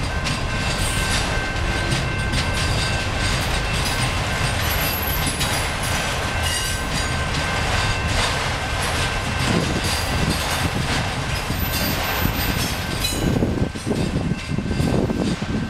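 Freight train of autorack cars rolling past at close range: a steady rumble of steel wheels on rail, with frequent clicks over the joints and a thin, steady high whine from the wheels. The sound grows rougher and more uneven near the end.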